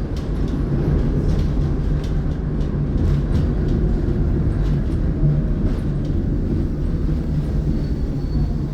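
Tatra T6B5SU tram running between stops: a steady low rumble of wheels on rails with a low steady hum and a few faint clicks.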